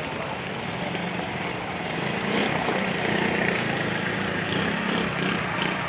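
A motor vehicle's engine running steadily, growing louder about two seconds in.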